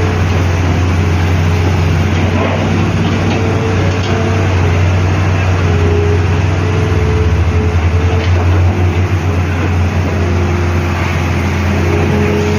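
Heavy diesel engine of an excavator running steadily at work, with a deep hum that pulses briefly about seven to nine seconds in.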